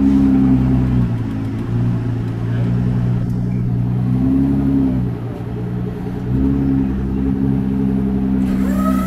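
A 2022 Ford GT's twin-turbo 3.5-litre V6 running at low revs while the car creeps along under light throttle, its pitch rising and falling a few times.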